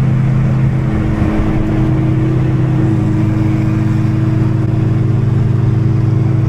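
Car engine and exhaust droning at a steady speed, its pitch holding level with no revving up or down.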